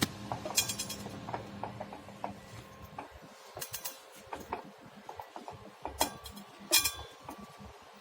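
Irregular clicking and short squeaks from a 4WD car's front drive-shaft universal joints (crosses), a sign of worn U-joints with play in them, mistaken at first for a pebble caught between the brake disc and its dust shield.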